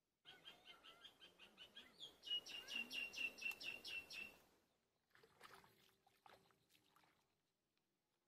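A bird calling: a quick run of about twenty short, repeated notes at roughly five a second, growing louder before stopping about four and a half seconds in. A few fainter, scattered calls follow.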